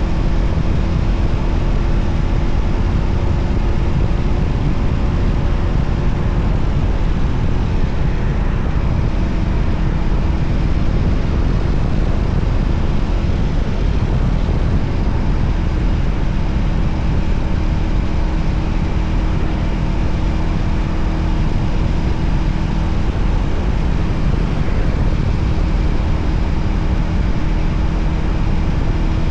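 Voge 300ACX motorcycle cruising at a steady speed: an even engine note under a heavy, low rush of wind and road noise.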